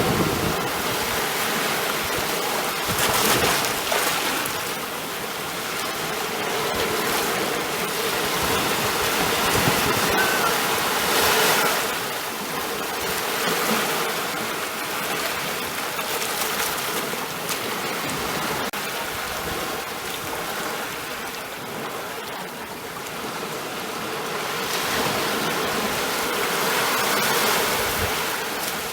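Ocean waves breaking and washing on a shore, a steady rush of surf that swells and ebbs every several seconds.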